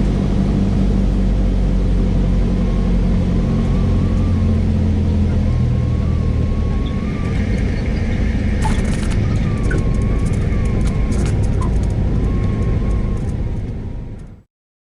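Cessna 172S's four-cylinder Lycoming engine running, heard in the cockpit, its low drone easing off about six seconds in as power comes back. Several sharp clicks follow in the second half, and the sound fades out near the end.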